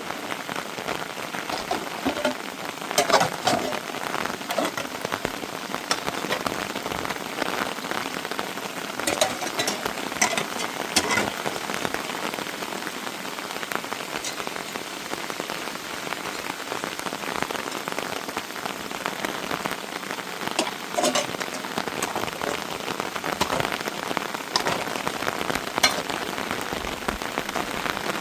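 Heavy rain falling steadily, with scattered sharp ticks of drops striking close by, clustered a few seconds in, around the middle and near the end.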